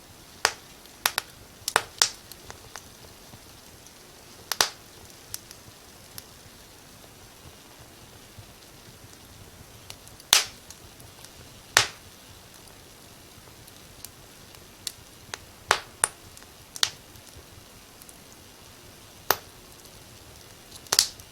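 Wood fire crackling: sharp irregular pops and snaps over a low steady hiss, about a dozen loud pops, several close together near the start and a cluster near the end.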